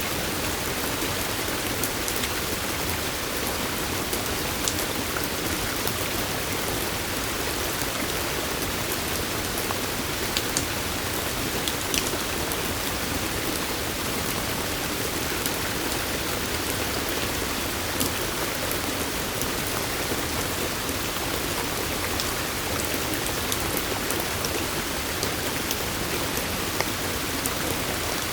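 Steady hiss of falling water, with single drops ticking sharply now and then, most clearly about 10, 12 and 18 seconds in.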